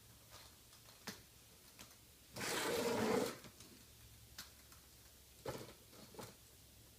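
Small plastic clicks and knocks of toy monster trucks being handled, with one brief rushing rattle about two and a half seconds in.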